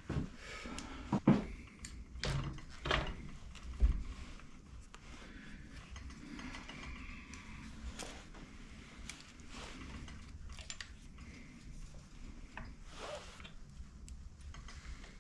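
Hand tools and metal bike parts being handled, with a few sharp knocks and clicks in the first four seconds, then quieter scattered clicking.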